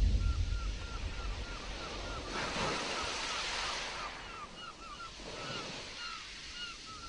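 Stormy sea: surf and wind, with a low rumble at the start and a wave washing in about two seconds in. A steady run of short high chirps repeats a few times a second over the surf.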